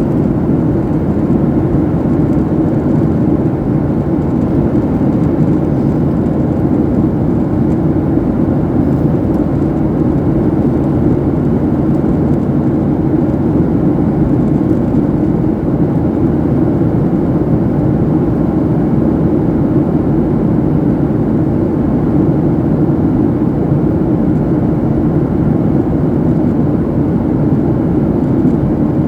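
Airliner cabin noise in flight: jet engines and rushing airflow make a steady, deep, unchanging drone.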